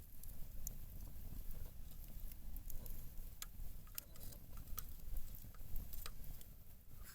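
Scattered small sharp clicks and crackles, a few each second, over a steady low rumble.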